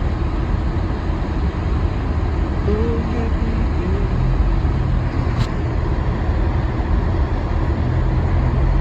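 Steady low rumble of a car's engine and tyres heard from inside the cabin while driving on a snow-covered road, with a single sharp click about five and a half seconds in.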